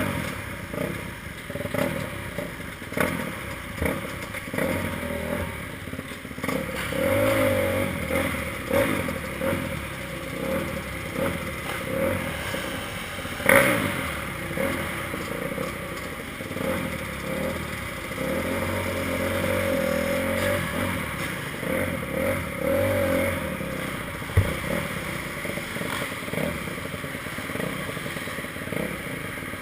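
Motocross bike engine revving up and falling back again and again, with clattering and a couple of sharp knocks, about halfway through and again later.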